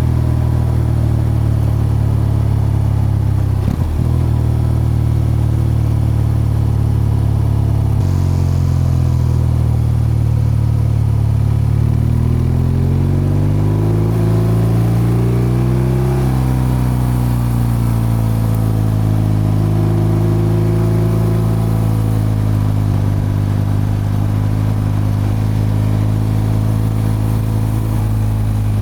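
BMW R12's boxer-twin exhaust while riding: a steady cruise, a drop in engine note around eight seconds in, then revs rising for a few seconds before settling back to a steady cruise. A short knock about four seconds in.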